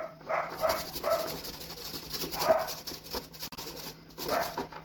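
A potato being grated on a hand grater: a fast, even run of rasping strokes. Several short high whines sound over it.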